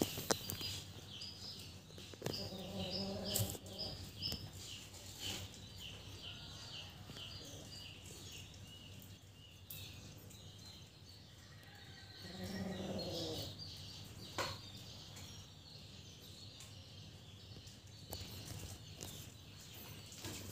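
A bird chirping in short, evenly repeated high notes, two or three a second, for the first nine seconds or so. A short low call sounds twice, about two and twelve seconds in, and a few light clicks are heard.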